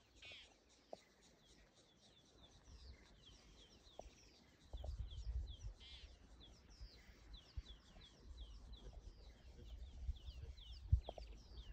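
Wild birds chirping in the bush, a steady run of short, quick, sliding notes repeating many times, with a low rumble joining about five seconds in.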